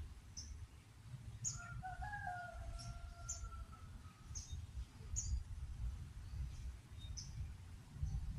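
A small bird giving short, high chirps, one every half second to a second. A rooster crows once in the background, a long call starting about a second and a half in. A low rumble runs underneath.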